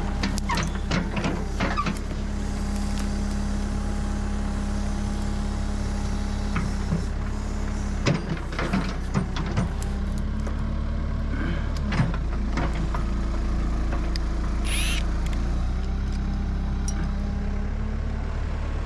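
Backhoe engine running steadily at idle, with scattered metal knocks and clanks now and then and a brief high squeal about fifteen seconds in.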